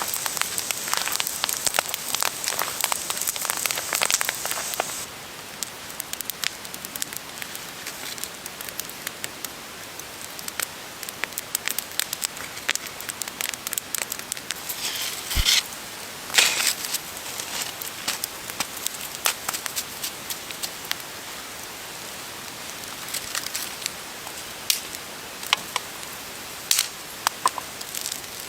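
Campfire crackling: irregular sharp pops and snaps over a steady hiss, busiest in the first few seconds, with a few louder pops midway.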